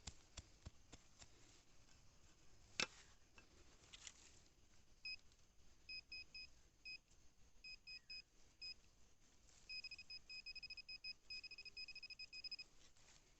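Metal detector giving short beeps at one steady pitch, sparse and irregular at first, then a quicker run of beeps near the end, signalling a buried metal target. A few faint clicks and knocks come before the beeping.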